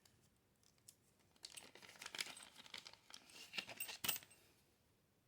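Faint handling noise of small parts and tools on a workbench: a run of light clicks, taps and rustling for about three seconds, with the loudest clicks near the end.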